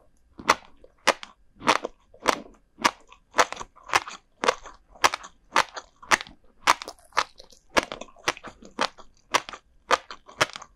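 Close-miked chewing of crunchy salted herring roe (kazunoko), a steady run of sharp crunches at a little under two a second.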